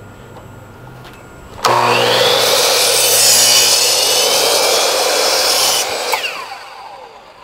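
A handheld power tool starts abruptly and cuts steadily for about four seconds. Its motor then winds down with a falling whine.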